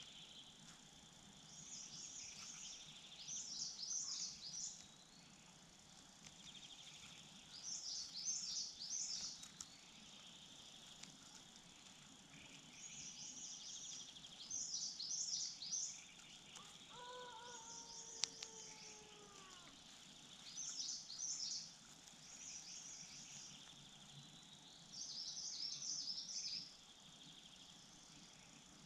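Wild songbirds chirping outdoors in short bursts of rapid high notes, repeating every few seconds over a steady high insect drone. A single lower, falling call sounds once about halfway through.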